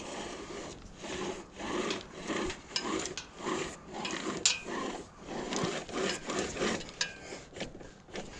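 Rhythmic rasping strokes of a hand tool being worked back and forth, about two a second, with a sharp click about halfway through.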